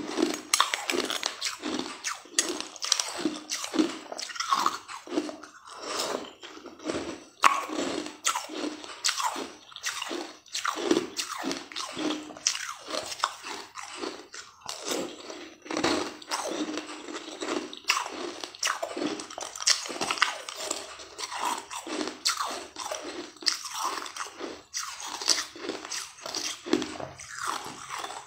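Close-up crunching and chewing of frozen blue balls: a steady, uneven run of short, crisp crunches and bites throughout.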